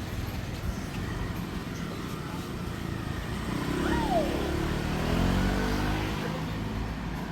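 Street traffic: a steady low rumble of engines, with one vehicle's engine passing and rising in pitch between about four and six seconds in.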